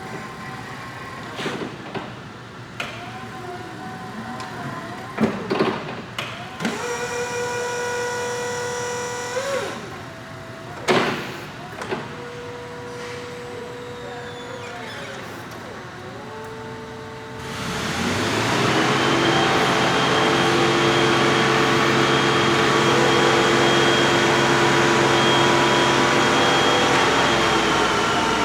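Raymond battery-electric reach truck operating: electric motor whines that hold a pitch and then bend down, mixed with clicks and knocks. About two-thirds through, a louder steady motor whine with a hiss sets in and keeps going.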